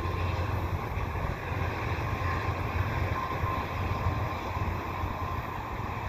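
Steady rumble of a departing passenger train's wheels on the track, mixed with wind buffeting the microphone.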